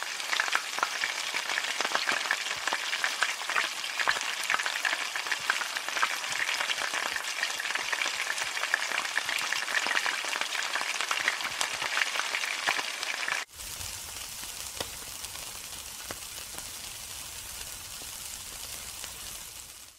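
Food frying in hot oil in a wok, a loud dense crackle and sizzle. About two-thirds of the way through it cuts abruptly to a quieter, steadier sizzle over a low rumble, as meat skewers cook over a grill.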